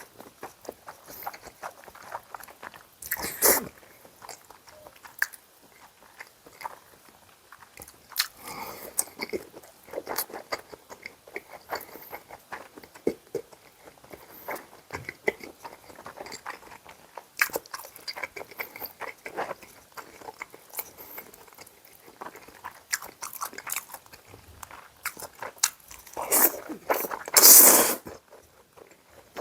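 A person eating close to the microphone: biting and chewing food in a run of small clicks, with louder bursts about three seconds in and near the end.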